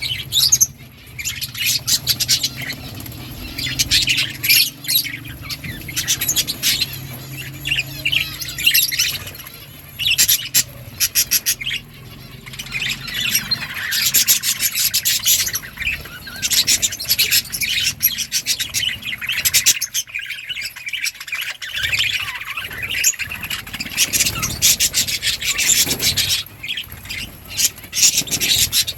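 Budgerigars (parakeets) chirping and chattering continuously, many quick overlapping chirps and warbles, with a faint low hum during roughly the first half.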